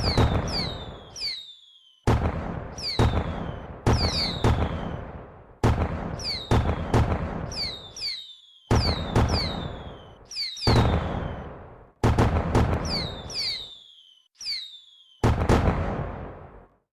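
Fireworks display: a rapid run of booming bursts, about one every second or less, each with a short falling whistle on top and a rumbling tail that dies away.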